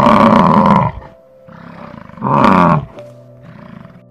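A large animal calling: two loud, drawn-out calls, one at the start and one about two seconds in, with softer calls between them, over a soft, steady background melody.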